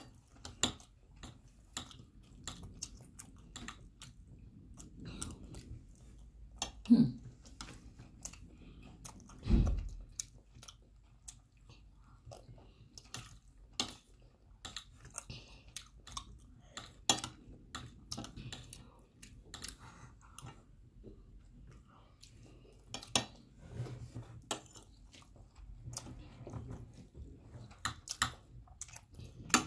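Close-up chewing of rice by two people, with many short sharp clicks of metal forks against plates and teeth. Two brief louder sounds come about seven and ten seconds in.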